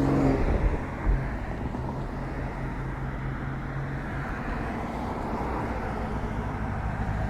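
Street traffic noise with a motor vehicle's steady engine hum that stops about four seconds in, leaving the even rush of road noise.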